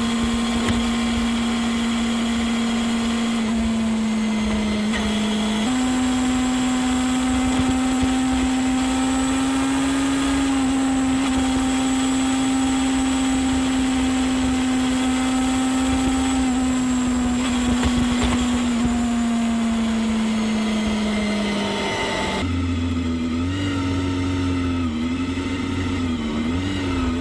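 Honda Hornet 250's inline-four engine running at steady high revs under way. The pitch steps up slightly about six seconds in and holds, then sinks gradually. Near the end the sound turns rougher and lower, with small rises and dips in revs.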